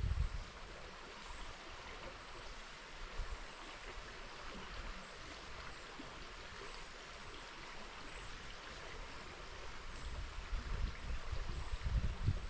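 River water flowing, a steady rushing hiss. Wind buffets the microphone with a low rumble at the start and again near the end.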